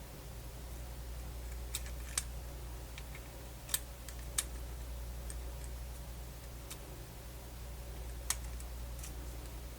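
Sharp, scattered clicks and taps of small plastic and metal parts of a Sony MZ-NH700 MiniDisc Walkman being handled and fitted back together, about five in all, over a steady low hum.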